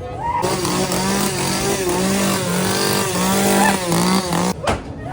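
Small two-stroke chainsaw engine revved hard for about four seconds, its pitch rising and falling, then cut off suddenly.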